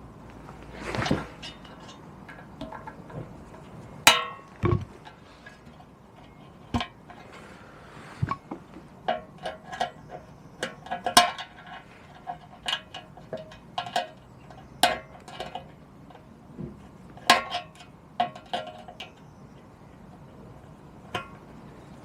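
Small metal parts and hand tools clinking and clicking irregularly while fuel-line hose clips are fitted on a moped, with a short scrape about a second in.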